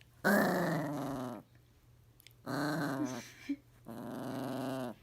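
A dog making three drawn-out, wavering growling vocalizations, each about a second long, with short pauses between them.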